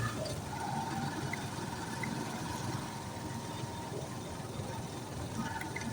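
Steady engine and road noise of a vehicle on the move, with a faint steady tone over the first few seconds.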